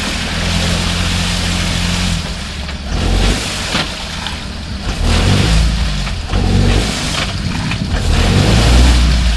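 A UAZ off-road vehicle's engine revs up and down in repeated surges as it strains to pull out of a deep muddy rut.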